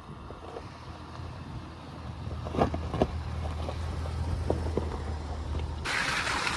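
A truck driving: a steady low engine and road drone with a few knocks and rattles. About six seconds in, a loud hiss cuts in suddenly.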